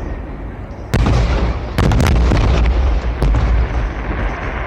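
Fireworks shells bursting: a sharp bang about a second in, a quick cluster of crackling bangs near two seconds, and more single bangs after, over a continuous low rumble of booms.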